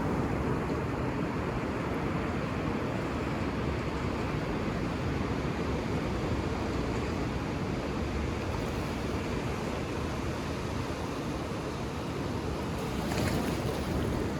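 Ocean surf rushing steadily on a beach, a dense, even wash of waves, with a brighter hiss of breaking water near the end.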